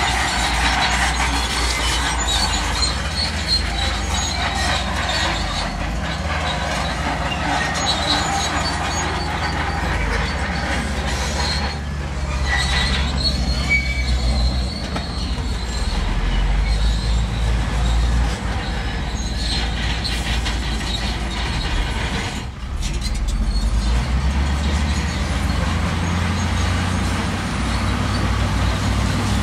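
Crawler bulldozer running, its diesel engine steady underneath while the steel tracks clank and squeal as it moves.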